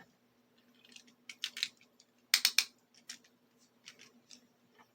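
Sharp hard-plastic clicks and clatter of Beyblade tops and launchers being handled and reset, with the loudest cluster of clicks about two and a half seconds in.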